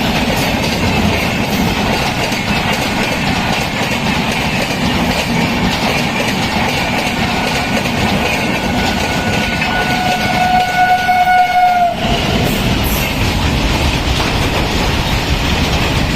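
Express train hauled by a WAP7 electric locomotive rushing past at high speed, with loud, steady rail and wheel noise and a clickety-clack of wheels over rail joints. A train horn is held for a few seconds about two-thirds through, its pitch sagging slightly just as it cuts off. The rushing noise then breaks off sharply and starts again.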